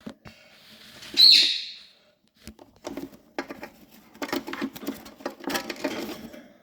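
Ring-necked parakeet chicks calling: one loud, high screech about a second in, then a run of rapid, raspy chattering calls from about three seconds in until near the end.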